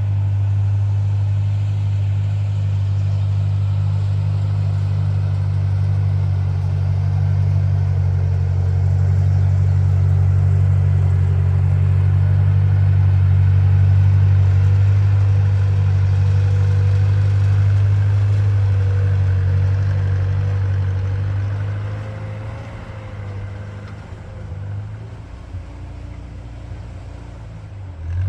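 Old Ford tractor engine running with a steady, heavy low drone, then dropping noticeably quieter about three quarters of the way through.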